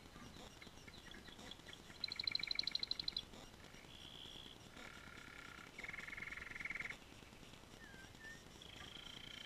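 Domestic canary singing: a series of rapid trills of quickly repeated notes, the loudest a couple of seconds in, broken by short held whistled notes.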